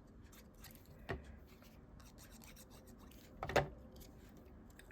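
Paper and cardstock rubbed and shuffled on the work surface as glued paper pieces are pressed into place: faint scratchy rubbing with two short knocks, about a second in and about three and a half seconds in, the second the louder.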